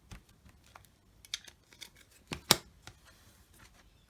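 Art materials handled on a tabletop: scattered light clicks and taps of plastic stamps, paint and a Perspex sheet, with one sharper knock about two and a half seconds in.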